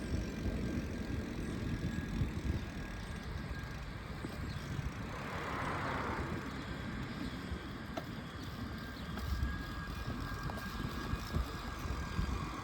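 Wind rumbling over the microphone and tyre noise from a bicycle coasting downhill, with a brief hiss about five seconds in.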